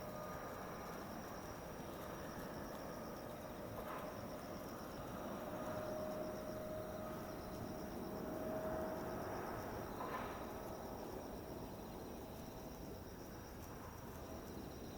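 Insects chirping in a steady, rapidly pulsing chorus over a low outdoor hum, with a faint steady whine from a distant jet that swells slightly midway.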